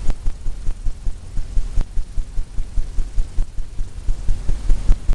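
Fan brush loaded with oil paint being tapped rapidly against a stretched canvas, about four dull thumps a second, as the bristles dab in rough wave texture.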